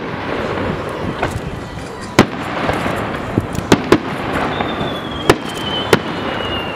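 Distant aerial fireworks going off: about half a dozen sharp bangs at uneven intervals, the loudest a little over two seconds in. A thin whistle sets in about two-thirds of the way through and slowly falls in pitch.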